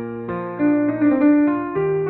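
Baroque keyboard music played on piano, with a melody moving over a held bass note.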